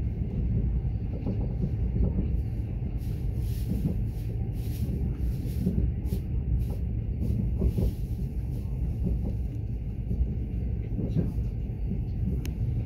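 Steady low rumble of a Mugunghwa-ho passenger train running on the rails, heard from inside the carriage, with a few faint higher clicks and hisses.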